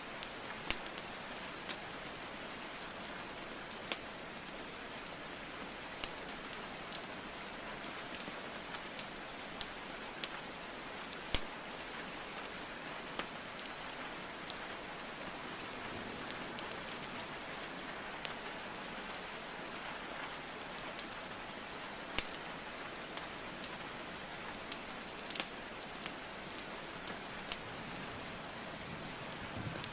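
Steady rainfall with scattered sharp crackles and pops of burning wood logs in a fireplace. One pop about eleven seconds in is louder than the rest.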